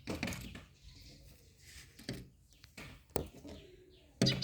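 A bird calling in several short, separate notes.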